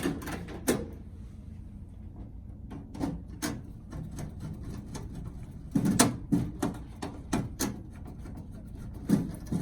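Irregular clicks and clunks of a screwdriver and the small metal light cover under a microwave as the cover is fitted back and its screw driven in, with a cluster of knocks a little past the middle.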